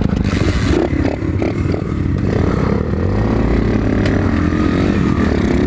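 Motorcycle engine running steadily under way, loud and close.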